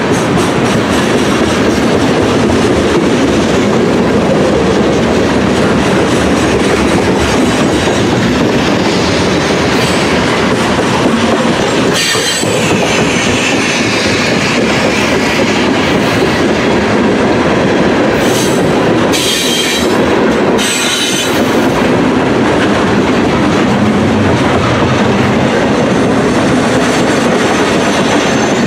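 Train cars rolling past close by, their wheels clattering steadily over the rails. Brief high-pitched wheel squeals come once around the middle and a few more times a little later.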